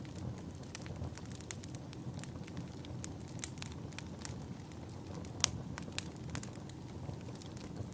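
Wood fire crackling: a steady low rumble under many irregular sharp pops and snaps, with two louder pops about five and a half and six seconds in.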